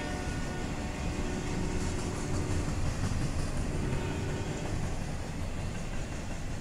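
CSX double-stack intermodal freight train's container cars rolling past, a steady rumble of wheels on the rails.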